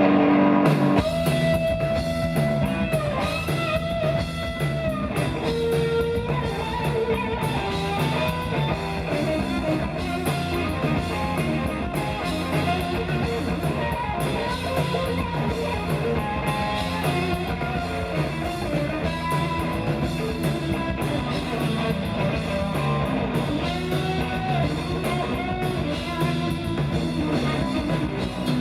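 A live rock band playing an instrumental break: electric lead guitar carrying long held notes that bend up and down, over bass guitar and a drum kit.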